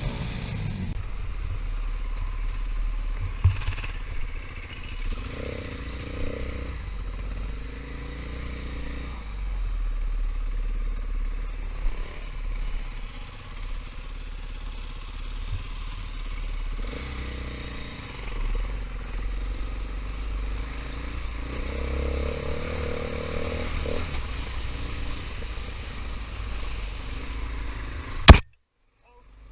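KTM 500 EXC single-cylinder four-stroke dirt bike engine running as the bike is ridden on a rough trail, its note rising and falling with the throttle, with a few knocks along the way. Near the end a sharp, very loud crack is followed by the sound cutting out for about a second.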